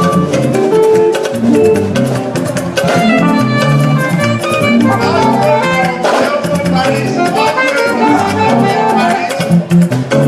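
Live band music with a steady percussion beat and held melodic notes, typical of instrumental accompaniment in a church praise session.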